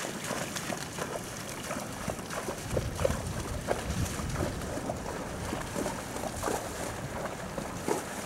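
A horse wading through deep floodwater, its legs splashing and sloshing the water in irregular splashes.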